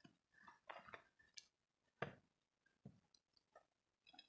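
Faint eating sounds: chewing and small clicks from the meal, about half a dozen short sounds spaced through the quiet.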